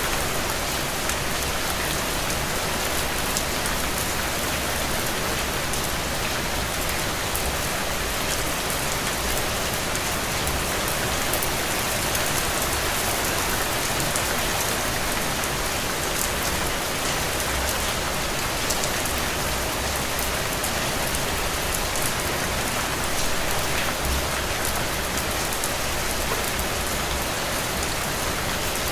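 Heavy, steady rain falling on the ground, an even dense hiss with the patter of individual drops.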